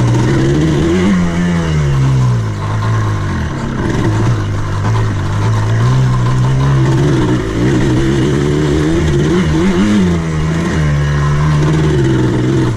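Buggy engine running under way, its pitch rising and falling with the throttle, revving up briefly about a second in and again near ten seconds in.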